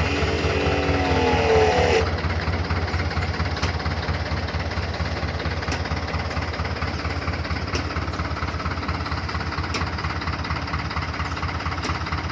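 A large engine of a piece of farm machinery running steadily with a deep, even rumble, a higher wavering tone over it for the first two seconds, and faint sharp ticks about every two seconds.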